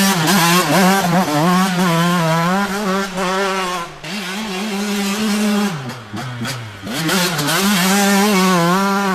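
Two-stroke motocross bike engine at high revs, its pitch wavering with the throttle. It dips about four seconds in, falls away again at about six seconds, then climbs back up.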